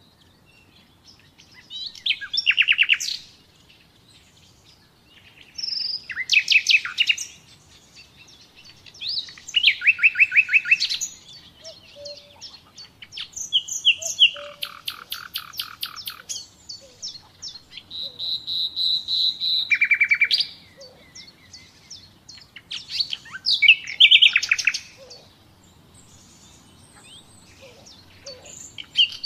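Common nightingale singing: short, varied phrases of rapid repeated notes, trills and a held whistle, one phrase every three to four seconds with pauses between.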